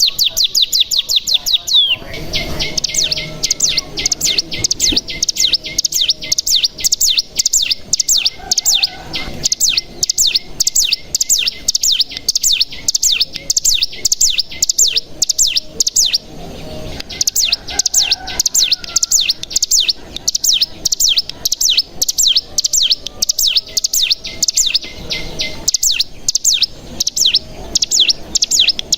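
Ciblek gunung, a mountain prinia, singing its long rapid trill (the 'bren'): high, sharp notes repeated about five a second in long runs with short breaks about 2 s, 16 s and 26 s in.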